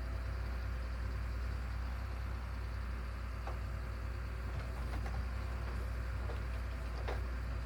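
A heavy engine running steadily with a low rumble, with a few faint clicks or knocks over it.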